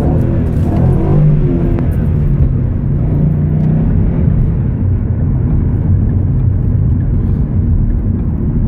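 Ford Mustang driving, its engine running steadily with road noise, a constant low drone; the engine note shifts briefly in the first two seconds.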